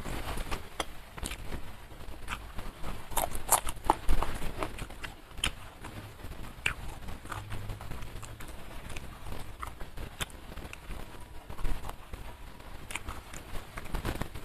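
Close-miked eating sounds: wet chewing and lip-smacking with irregular sharp mouth clicks, a denser run of louder clicks about three to four seconds in, as fried fish and rice are chewed and picked apart by hand.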